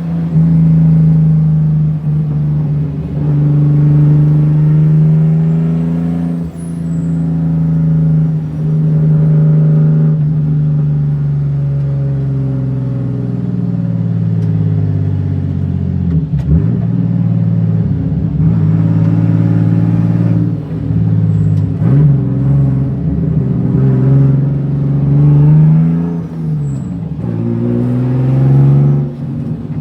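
BMW E36 M3 race car's straight-six engine under hard driving, heard from inside the car: the revs climb through each gear and drop sharply at each upshift, several times over.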